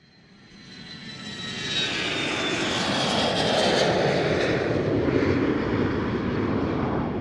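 Airplane flying past: a roar that builds over the first couple of seconds and then holds loud, with a high engine whine that slowly falls in pitch.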